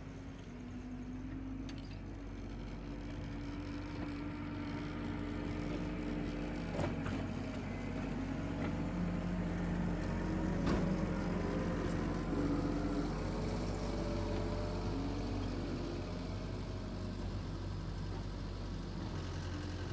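Tractor engine running steadily while pulling a power rake, its pitch wavering slightly under changing load, with a couple of sharp clicks about seven and eleven seconds in.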